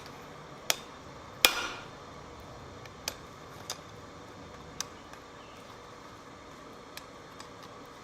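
Hammer blows on metal at a blacksmith's anvil: a handful of separate strikes at uneven intervals, the loudest about a second and a half in and ringing briefly, over a steady background noise.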